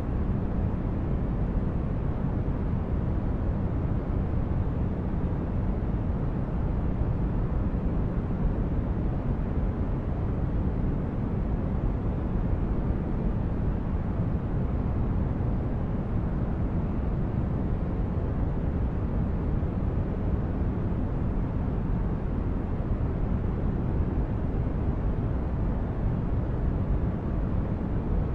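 Steady, unchanging noise of a sleep-aid white-noise track, weighted to the low end so it comes across as a deep even rumble rather than a bright hiss.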